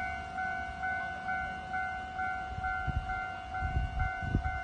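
Railway level-crossing warning alarm ringing in a steady repeating pattern, about two strokes a second. Low rumbling thumps come in during the second half.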